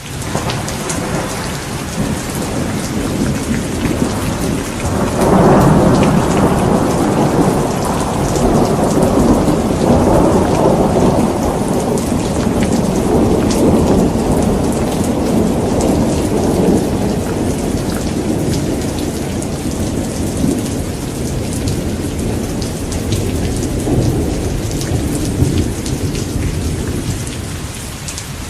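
Thunderstorm: steady heavy rain pattering on surfaces, with a long roll of thunder that breaks in sharply about five seconds in and rumbles on, slowly dying away over the following twenty seconds.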